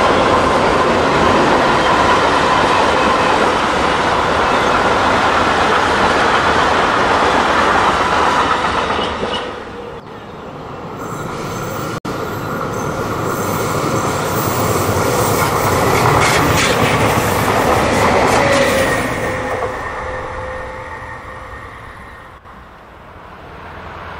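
Freight train of tank wagons and boxcars rolling past, with dense steady wheel-and-rail noise. About ten seconds in the noise drops, then swells again and fades away.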